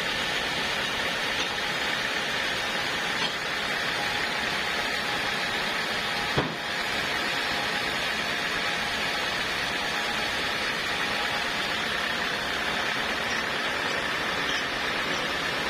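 Portable sawmill running steadily, an even mechanical drone, with a single short knock about six and a half seconds in.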